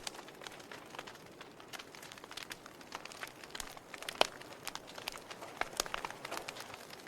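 Wood fire crackling: irregular sharp pops and snaps over a soft steady hiss, with the loudest pop about four seconds in.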